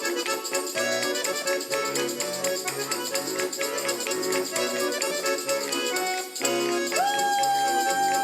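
Bayan (Russian button accordion) playing the lively instrumental introduction to a folk song over a fast, even beat. About seven seconds in, the music settles onto one long held note.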